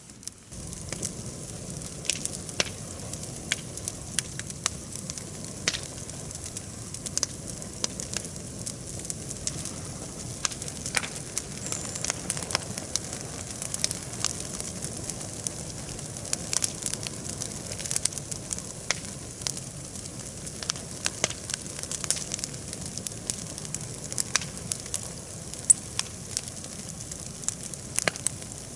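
Bonfire of damp branches and pine boughs burning, with a steady hiss and frequent irregular sharp crackles and pops.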